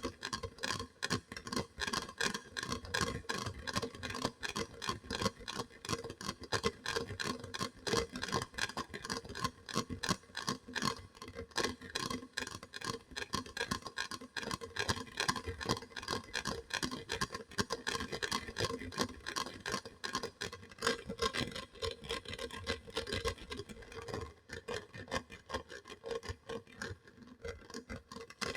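Rapid close-miked tapping or clicking on a hard object, many clicks a second, as an ASMR trigger, with a faint ringing tone under the clicks.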